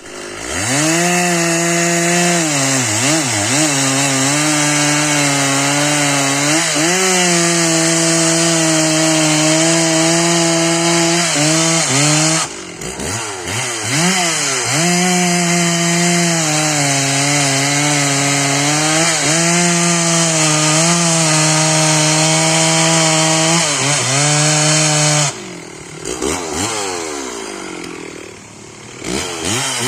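Stihl 064 two-stroke chainsaw running at full throttle, most likely cutting wood, its pitch sagging and recovering under load. It drops back briefly about twelve seconds in, and again for several seconds near the end, before revving back up.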